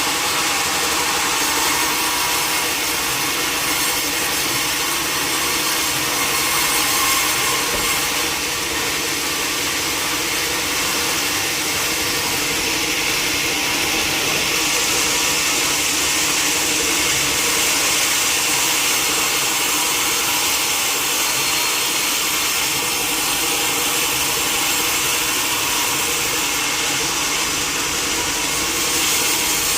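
Sawmill saw cutting lengthwise through a teak log: a steady, unbroken sawing noise with a strong hiss, running without pause.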